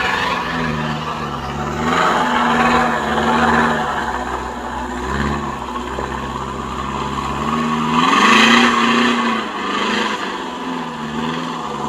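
Pickup truck engine revving up and down under load on a slippery climb, with louder surges of spinning-tyre noise about two seconds and eight seconds in. The wheels are spinning because the differential locker has not been engaged.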